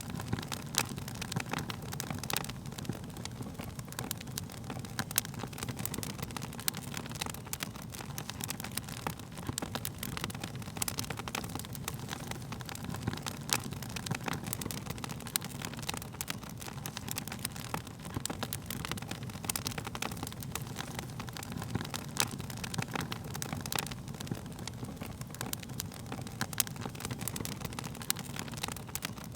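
Wood fire crackling: frequent irregular sharp pops and snaps over a steady low rumble of burning flames.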